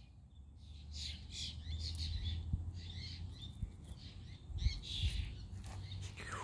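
Small birds chirping repeatedly in short calls, over a low rumble with a few soft knocks.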